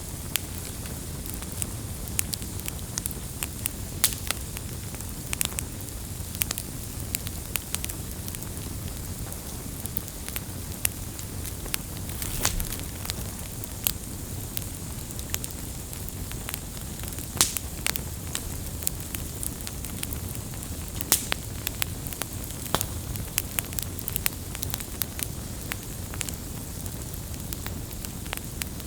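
Campfire crackling steadily over a low rumble and hiss, with frequent sharp pops and snaps scattered irregularly.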